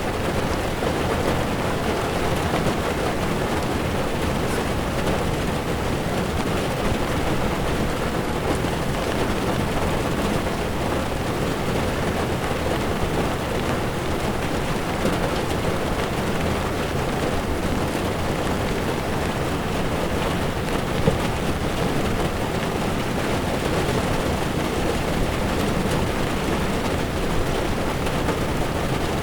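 Heavy rain on a moving car, its tyres running on a wet road: a steady, even hiss with a low rumble underneath. A single brief tap stands out about two-thirds of the way through.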